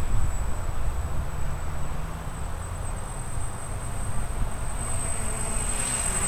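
Wind buffeting the microphone over the distant buzz of an X250 quadcopter's electric motors and propellers, which grows louder near the end.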